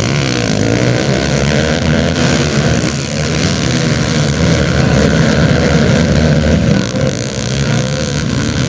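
Motocross bike engines running at high revs, their pitch wavering up and down continuously.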